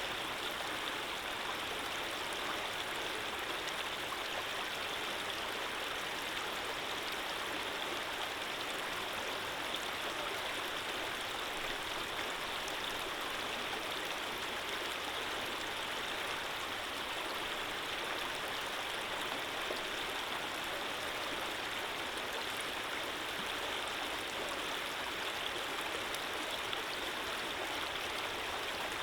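Running water flowing steadily, a stream or small cascade making an even rushing hiss with no breaks or changes.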